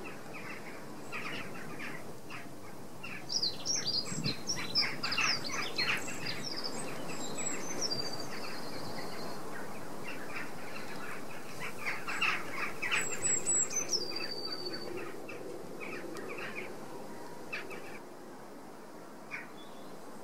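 Wild birds chirping and singing: quick chirps come in two busy spells, each capped by a high whistled note that drops and then holds briefly.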